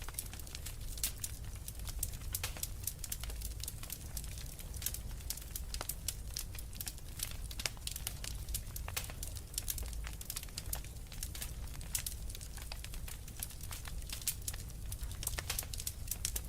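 Wood fire burning in a fireplace, logs crackling and popping in many sharp, irregular snaps over a steady low rumble of the flames.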